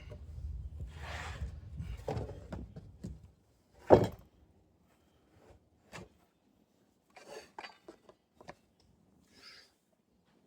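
Workshop handling noises: a low rumble that stops about three seconds in, one loud knock about four seconds in, then scattered light taps and clicks.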